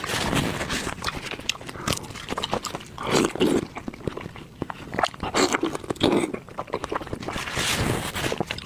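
A person eating braised pork noisily with the mouth close to the microphone: wet chewing, smacking and slurping, with many sharp clicks and a few short, low gulping sounds.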